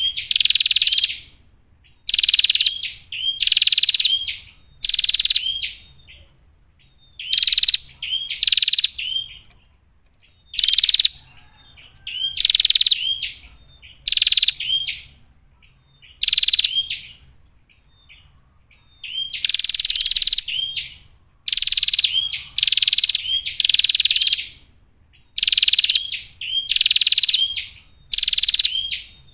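Female prinia (prenjak) giving repeated harsh, buzzy calls, each about half a second to a second long, in runs of two to four with short pauses between the runs.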